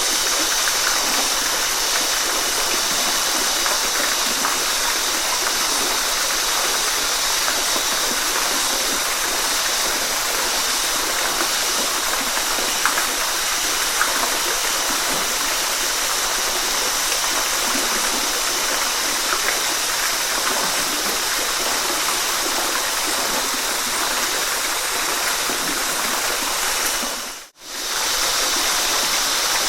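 Steady rushing and splashing of a waterfall, a hissy, even wash of water noise. Near the end it briefly fades out and comes straight back, where the recording loops.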